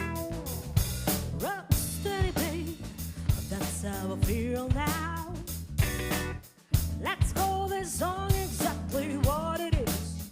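A live funk band playing with drum kit and bass, a lead line gliding up and down over the groove. The band drops out briefly about two-thirds of the way through, then comes back in.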